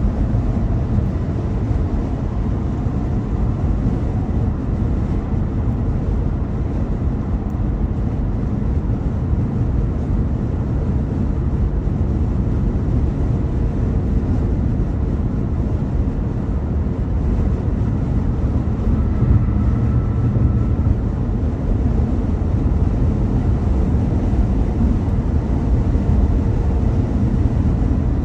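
Steady low rumble of a car driving on a highway: tyre and road noise with engine hum, unchanging throughout.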